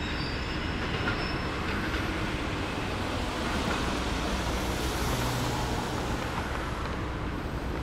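Passenger coaches of a departing train rolling over the station tracks: a steady rumble of wheels on rail, with a faint high wheel squeal that fades out in the first couple of seconds.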